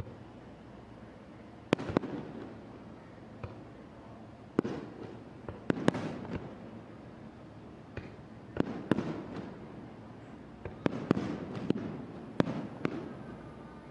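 Aerial fireworks shells bursting overhead: about a dozen sharp bangs in irregular clusters, each followed by a rolling rumble.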